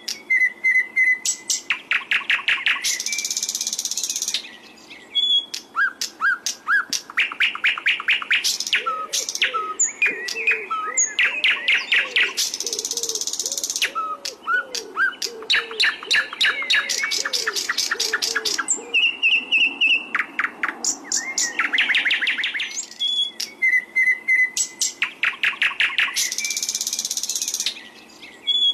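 Sikatan londo flycatcher singing continuously. Its song is made of rapid trills of sharp repeated notes, short whistled notes, and several harsh buzzy bursts about a second long.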